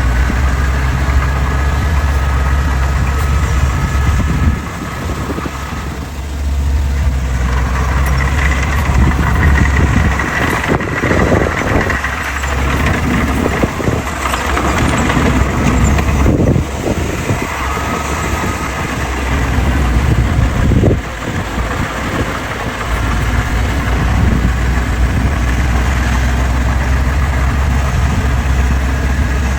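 Heavy diesel engine of earthmoving machinery running: a steady low drone that turns uneven and changing through the middle, as under working load, then settles back to a steady drone.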